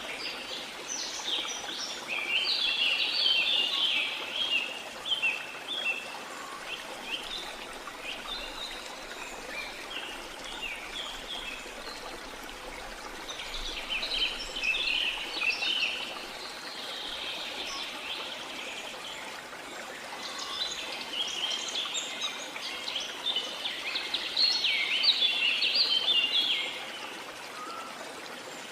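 Small songbirds chirping and twittering in three bouts, the last the loudest, over a steady rush of water.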